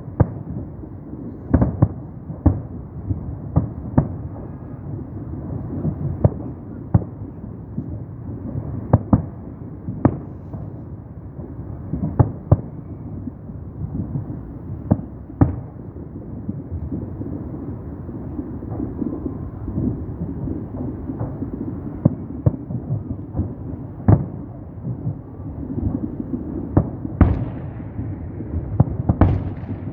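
Aerial firework shells bursting in an irregular series of sharp bangs, several a second at times, over a continuous low rumble.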